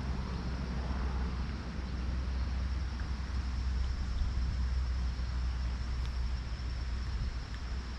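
Steady low rumble with a faint even hiss and a thin, steady high tone: outdoor background noise with no distinct event.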